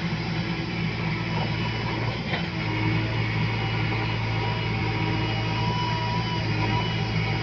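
JCB digger's diesel engine running steadily under work, with a brief dip about two seconds in and a thin high whine coming in later on.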